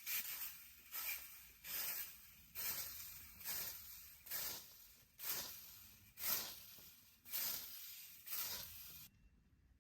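Rhythmic scraping strokes, about one a second, cutting off abruptly near the end.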